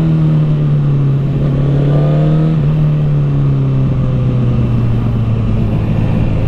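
Honda CBR1000RR's inline-four engine running through a Taylormade aftermarket exhaust while the bike is ridden, with a steady wind-and-road hiss. The engine note shifts about two and a half seconds in and then sinks slowly.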